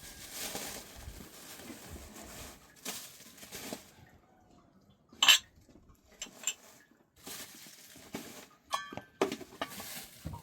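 Objects being handled: scattered rustling and scraping with a few sharp, briefly ringing clinks, the loudest about five seconds in and another cluster near the end.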